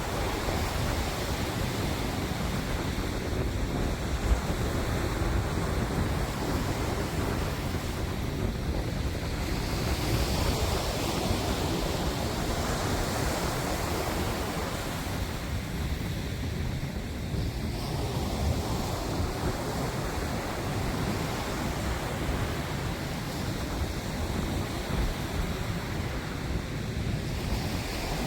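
Steady wind rumbling on the microphone over the wash of waves, swelling and easing slowly.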